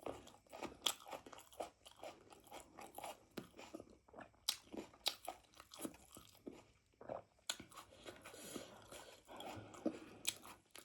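A person chewing spiced meat in gravy close to the microphone: a steady run of small clicks and crunches from biting and chewing.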